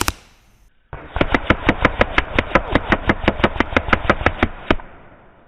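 Airgun fired in rapid succession in a magazine dump: about twenty sharp shots at roughly six a second, stopping abruptly.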